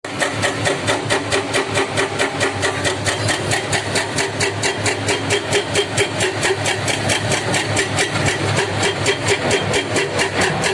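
Heavy diesel engine running steadily with a regular pulsing beat, about four to five beats a second.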